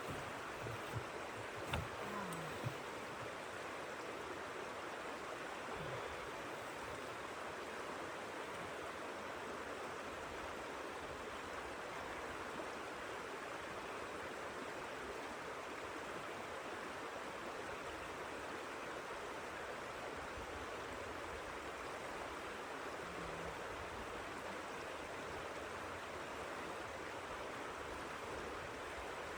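Steady, even rushing hiss of a blizzard, with a few soft low knocks in the first few seconds.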